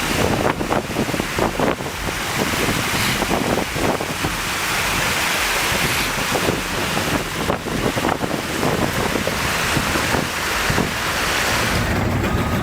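Wind blowing hard across the microphone: a steady, gusty rushing noise.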